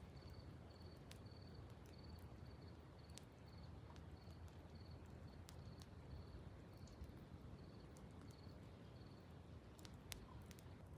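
Faint cricket chirping: a short, high chirp repeated evenly about two or three times a second, stopping about nine seconds in, with a few faint clicks.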